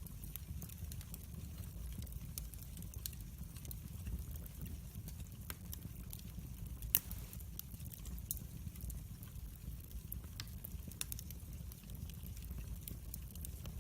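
Wood fire burning in a fireplace, crackling with scattered sharp pops over a low steady rumble of the flames. One pop about halfway through is louder than the rest.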